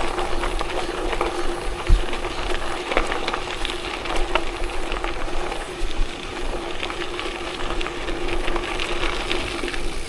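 Riding along a gravel forest road: a steady crackle of stones under the tyres, a constant hum and low rumble of wind on the microphone.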